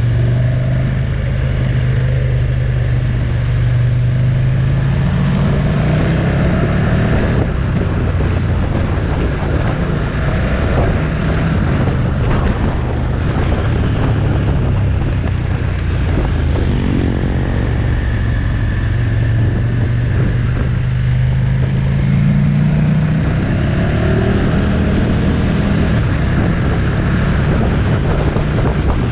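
Motorcycle engine running under way with a steady rush of wind and road noise. The engine note climbs under acceleration a few times, settling back in between.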